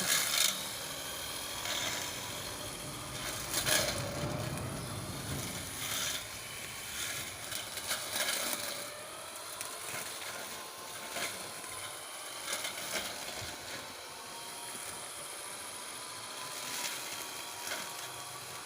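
Homemade solar-powered electric brush cutter running and cutting grass: a faint wavering motor whine under steady noise, with irregular sharp clatters every few seconds as the blade strikes stalks.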